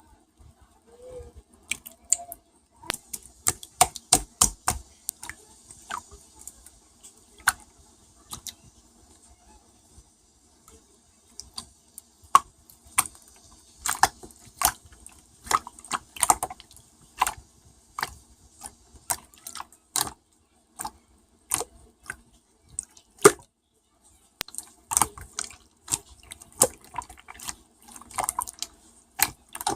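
Slime being squeezed and pressed by hand, making wet clicking and popping sounds at an irregular pace, with a short lull partway through.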